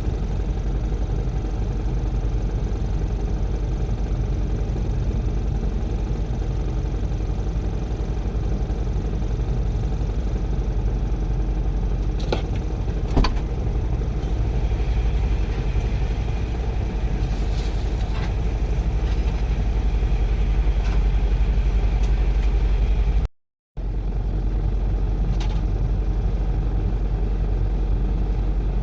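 Heavy diesel construction machinery running with a steady low rumble, with a few sharp knocks about halfway through and again near the end. The sound cuts out for a moment about three quarters of the way in.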